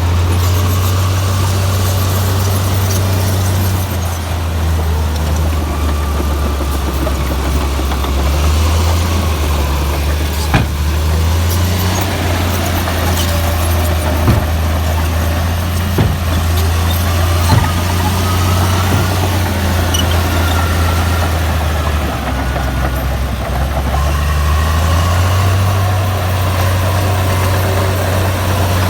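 Komatsu bulldozer's diesel engine running loud and steady, its pitch dropping and rising several times as the load changes. A few sharp clanks come through in the middle.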